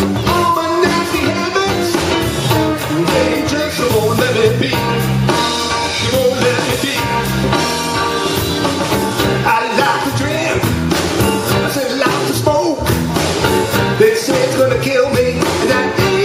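Blues band playing live, with singing over guitar, bass and drums.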